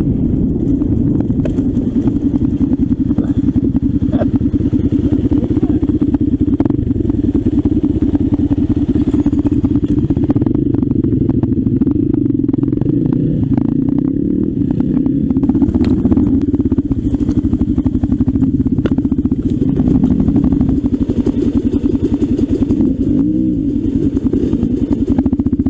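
Trail motorcycle engine running steadily under way, with frequent short knocks and clicks over the top.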